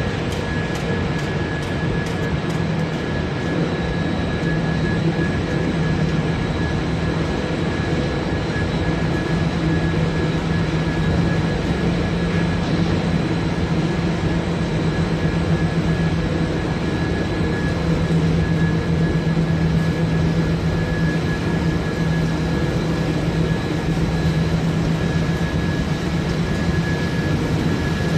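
Wood pellet production line machinery running steadily: a loud, even drone with a constant high whine over it.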